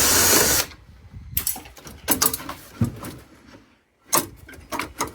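Metal parts and tools knocking and clicking as a hot water heater is taken apart for scrap. It opens with a loud burst of noise lasting about half a second, and another cluster of knocks comes a little after the middle.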